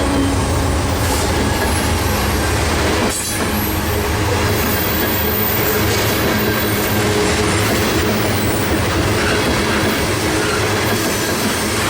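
Loaded Norfolk Southern grain train of hopper cars rolling past steadily, the wheels running on the rails, with a brief dip in level about three seconds in.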